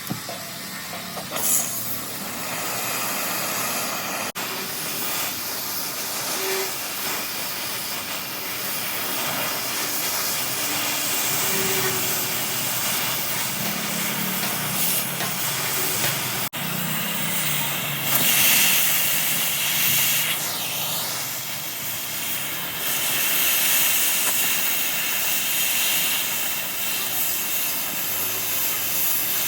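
A steady, loud hissing noise that swells at times.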